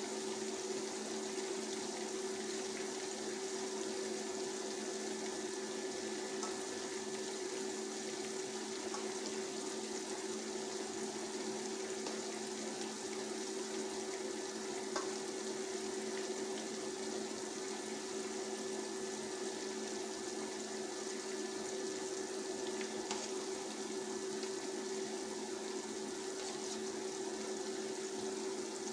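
Onions frying in a pot, a steady sizzling hiss over a steady low hum, with a faint click about fifteen seconds in.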